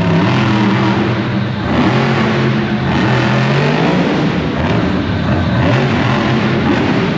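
Monster truck engine revving hard, its pitch shifting up and down over a noisy roar.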